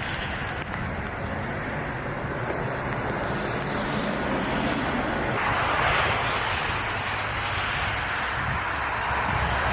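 Strong gusty wind buffeting the microphone over a steady low rumble, with a louder gust about six seconds in.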